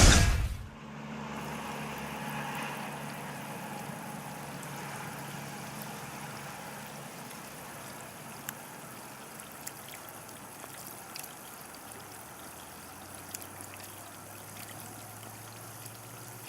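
Faint, steady sound of water lapping at a shoreline, with a low hum underneath and a few small clicks.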